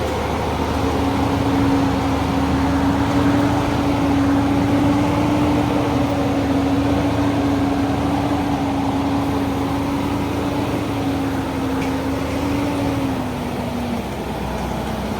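An old truck's engine running steadily, with a steady drone that drops in pitch near the end.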